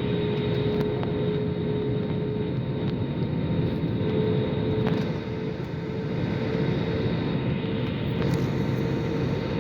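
Steady drone of an airliner heard from inside the passenger cabin: a constant rush of engine and air noise with a steady hum running through it.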